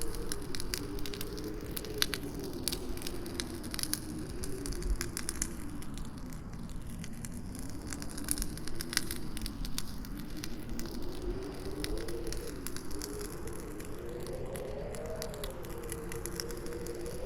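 Campfire crackling with frequent sharp pops, over wind howling in a low moaning tone that slowly rises and falls in pitch.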